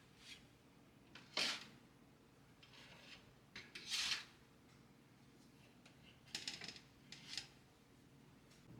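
Light handling sounds: a few short knocks, clicks and scrapes of small objects being moved, the loudest a brief scrape a few seconds in and a quick run of clicks near the end, over a faint steady hum.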